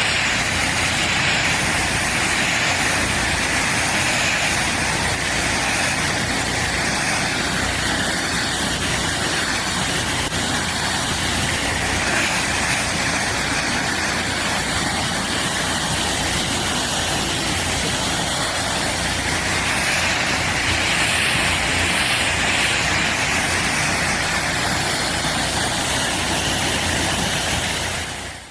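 Heavy snow-clearing machine running steadily, its engine under a dense rushing noise that swells and eases slowly without a break.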